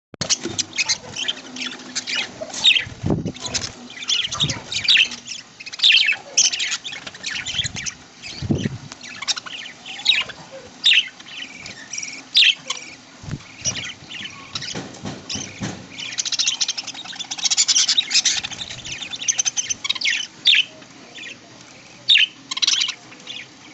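A flock of budgies chattering with rapid, high chirps and squawks, densest about two-thirds of the way through, with a few brief low thuds in between.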